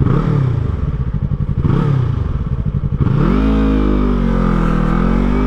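A 2017 Yamaha YZF-R3's parallel-twin engine, heard from the rider's position. The revs drop twice early on, then about three seconds in it accelerates and holds at higher revs.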